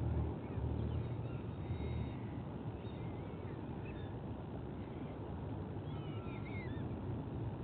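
Outdoor nest-camera audio: wind rumbling on the microphone, heaviest in the first two seconds. Over it come faint, short, sweeping chirps of birds, a few times.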